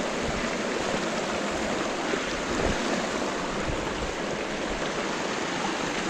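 Steady rushing of lake water washing against the shore, with wind buffeting the microphone in low, uneven thumps.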